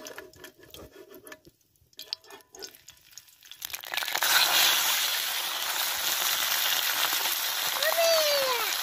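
A metal slotted skimmer clinks and scrapes in a black iron pan of hot oil. About four seconds in, cubes of raw goat liver are tipped into the oil, which breaks into a loud, steady sizzle.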